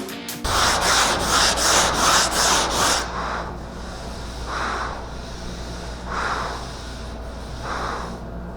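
Sandpaper on a sanding block rubbing over a car body panel by hand. Quick back-and-forth strokes for the first few seconds, then slower, longer strokes about every second and a half.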